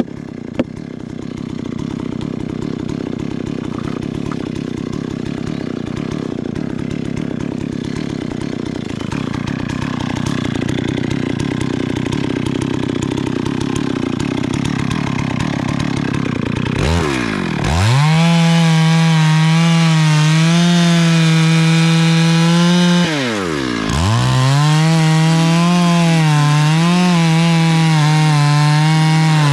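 Chainsaw running at lower speed, then opened up to a high, steady full-throttle pitch about two-thirds of the way in. Its pitch plunges sharply and recovers twice.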